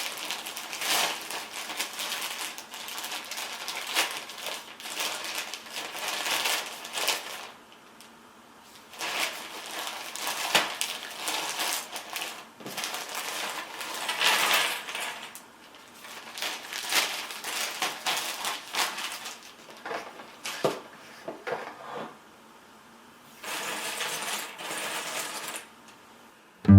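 Cardboard jigsaw puzzle pieces clicking and rattling against each other and the table as they are handled, in clusters of small clicks with a couple of short pauses.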